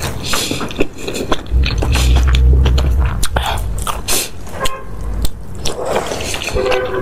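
Close-miked eating sounds: chewing of noodles and soft food, with many quick wet clicks and smacks. A low rumble swells up about a second and a half in and fades after another second or so.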